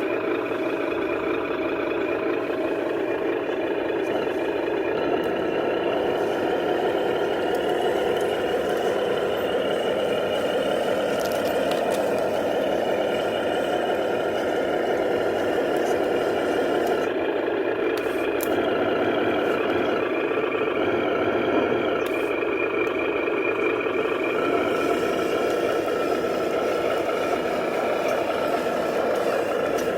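Remote-control 8x8 truck running steadily, a continuous mechanical whir whose pitch wavers slowly up and down.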